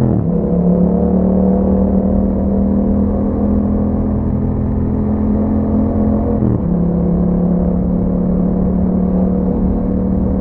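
2021 Yamaha MT-07's 689 cc parallel-twin engine running under way through an Akrapovic exhaust, heard onboard. The engine note holds fairly steady, with a sharp dip in pitch at the start and another about two-thirds of the way through.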